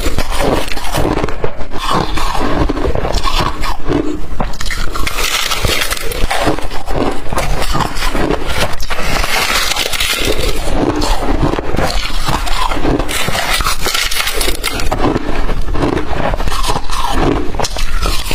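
Close-up biting and chewing of blender-crushed ice: a dense, continuous run of crisp crunches.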